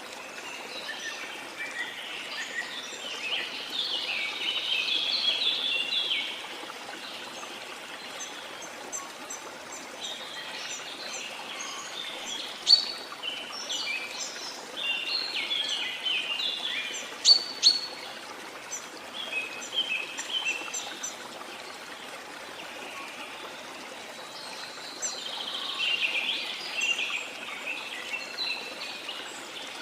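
Birds chirping and singing in several spells over the steady rush of a flowing river, with a few sharp loud notes in the middle.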